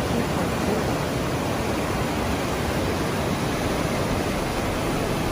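Rushing floodwater: a steady, even rush of noise that does not change.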